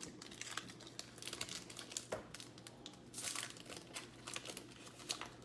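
Trading-card pack wrapper crinkling as it is handled and torn open by hand, an irregular rustle with louder spells.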